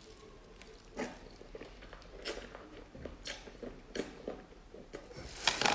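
Eating sea snail meat: faint, wet chewing with separate mouth clicks and smacks about once a second, louder and closer together near the end.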